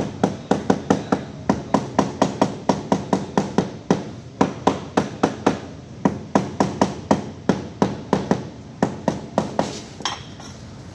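Rapid, regular hammer blows, about four a second, with two brief pauses, stopping shortly before the end.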